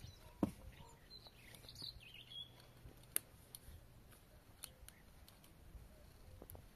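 A few sharp clicks or snips, the loudest about half a second in and another just after three seconds, with a bird chirping briefly about one to two and a half seconds in.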